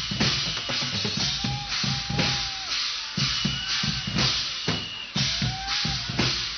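Guggenmusik band playing a loud drum-driven passage: bass drum and snare beating in a steady rhythm, with a few held higher notes over the drums.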